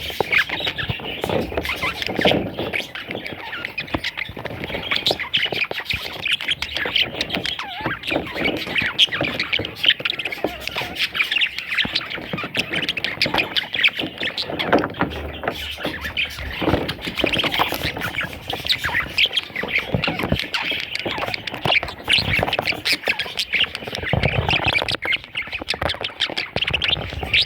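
Budgerigars calling nonstop, many quick chirps and squawks overlapping.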